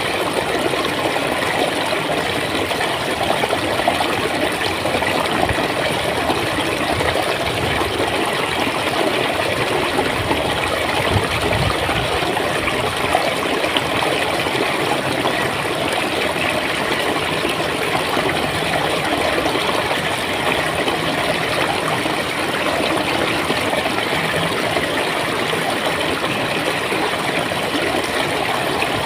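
A stream of water flowing steadily, a continuous gurgling rush.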